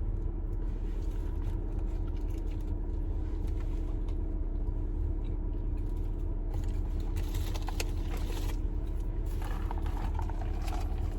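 Steady low hum of a car idling, heard from inside the cabin, with scattered small clicks and rustles of food being handled and eaten.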